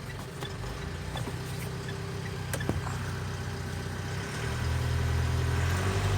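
Mitsubishi Triton 2.5-litre four-cylinder diesel engine idling steadily, with a few light ticks; about four seconds in its low hum grows clearly louder.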